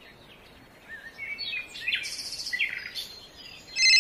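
Birds chirping: a run of short, quick chirps from about a second in to about three seconds in. Just before the end a loud, steady electronic tone starts abruptly.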